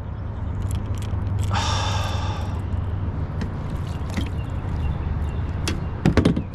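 A man lets out one long, heavy sigh about a second and a half in, over a steady low rumble. A few sharp knocks come near the end.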